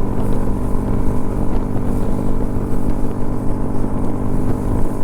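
Motorcycle engine running at a steady speed while riding, with a low wind rumble over the helmet microphone.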